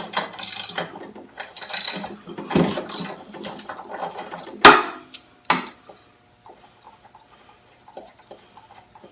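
Socket ratchet clicking as a lawn mower's spark plug is unscrewed, with one loud metallic clank about halfway through, then fainter scattered ticks.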